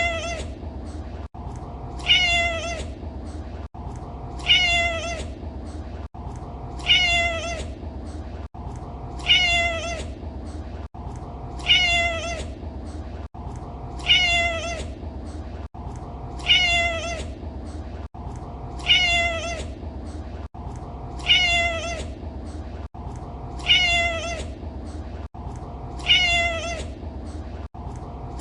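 A cat meowing, the same short meow repeated over and over about every two and a half seconds, each call falling in pitch. A steady low background noise runs under it.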